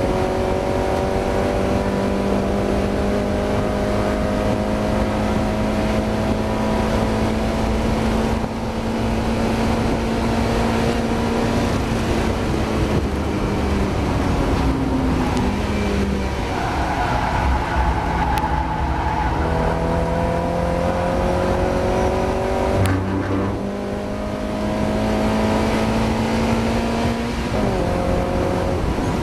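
Mazda MX-5 four-cylinder race engine pulling hard through the gears, its note climbing steadily. Around the middle it falls away as the driver lifts and brakes, then climbs again, with a quick drop at a gearchange near the end. The driver reports the engine struggling with a misfire.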